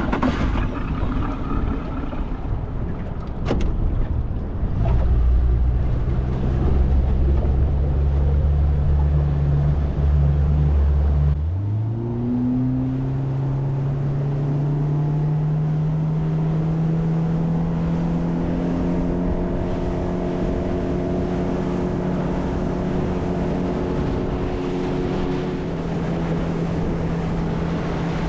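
Boat's outboard motor running low and steady, then throttling up about eleven seconds in, its pitch rising before it settles into a steady, higher cruising note.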